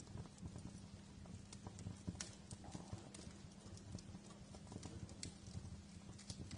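Wood fire crackling in a fireplace: irregular small snaps and pops over a low, steady rumble of the flames.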